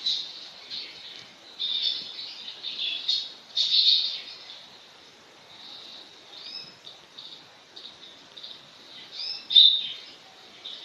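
Small birds chirping and tweeting in quick bursts, the loudest a little before 4 s and near the end.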